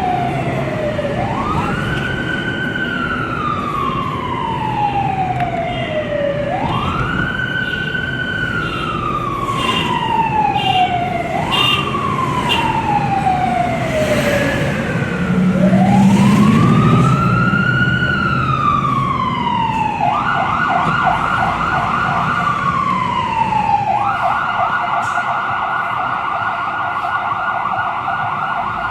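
Fire engine siren in wail mode, each sweep rising quickly and falling slowly over a few seconds, four times over. About two-thirds through it switches to a fast yelp, falls once more, then settles into a steady fast yelp. A low horn blast sounds briefly about halfway, the loudest moment.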